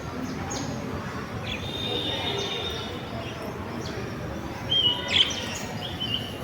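Birds chirping and whistling: short high chirps and a few held, high whistled notes over a steady background hiss. Two louder, sharp chirps come about five seconds in.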